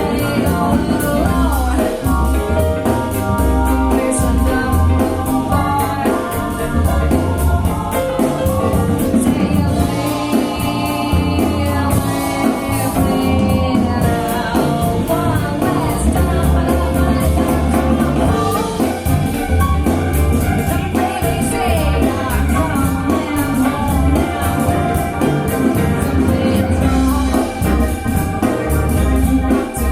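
Pop song with a singing voice and a strong bass beat, played through JBL Studio 590 floor-standing speakers and picked up in the room.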